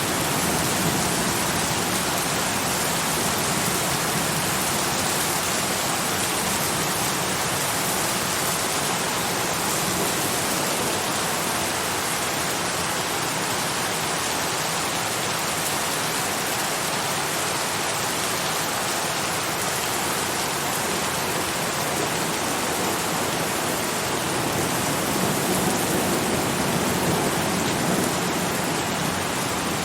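Steady rain falling, an even hiss of many drops with no distinct single drops or thunder.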